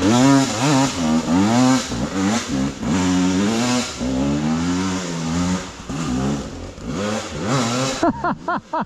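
Enduro dirt bike engine, tagged as a KTM, revving up and down over and over as the throttle is worked through tight trail riding. Near the end the sound drops and turns muffled, with a few short quick blips.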